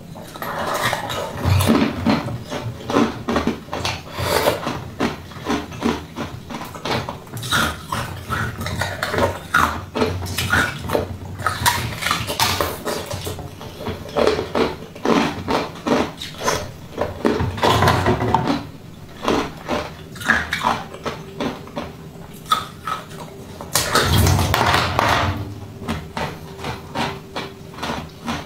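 Close-miked eating: biting and chewing soft coloured jelly, with many quick irregular clicks and smacks of the mouth, in louder spells.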